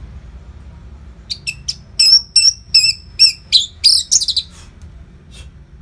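Orange-headed thrush singing a phrase of about eight loud, clear, high notes, beginning a little over a second in and ending in a quick run of notes around four seconds in, followed by one faint note.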